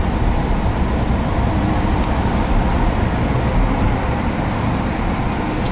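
Steady road noise of a moving car heard from inside the cabin, a dense low rumble of tyres and engine. There is a faint tick about two seconds in.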